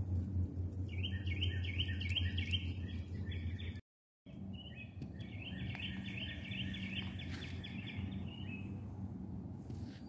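A songbird singing a rapid, even trill of repeated notes, twice, over a steady low background rumble. The audio cuts out completely for a moment about four seconds in.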